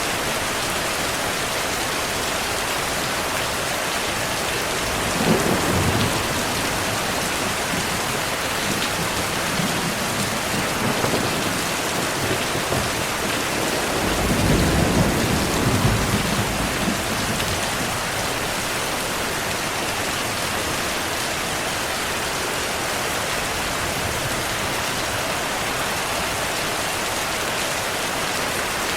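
Steady heavy rain, with low rolls of thunder rumbling about five seconds in and again, longer, around the middle.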